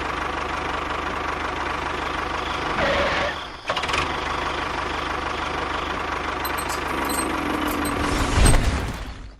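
A small motor running steadily with a low hum. It dips briefly about three and a half seconds in, swells louder near the end, then cuts off suddenly.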